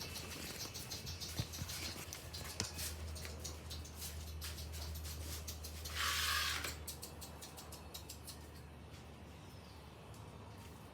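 Cats eating dry food: irregular small clicks and crunches. A brief rushing noise about six seconds in is the loudest sound, under a low steady hum.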